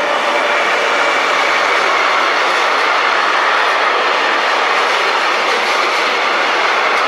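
Electric freight train passing at speed: a steady rush of steel wheels on rail from the grey locomotive and the container wagons behind it.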